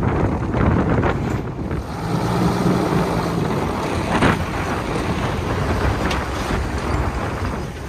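JCB 3DX backhoe loader's diesel engine running under load while it works, with wind buffeting the microphone. The engine hum rises for a second or so, and there is a short burst of noise about four seconds in.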